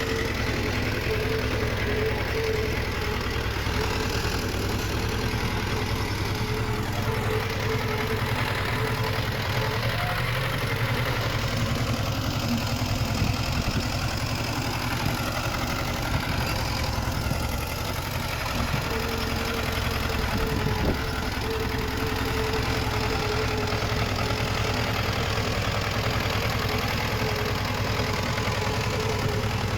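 Diesel engine of heavy earthmoving machinery running steadily. A faint steady whine fades out for several seconds in the middle and then comes back.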